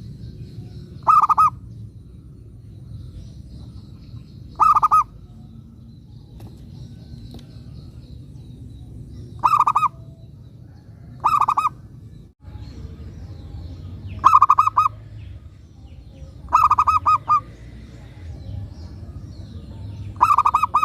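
Zebra dove (perkutut) singing: short bursts of rapid, pulsed coos, about seven phrases at irregular gaps of two to five seconds, over a low background rumble.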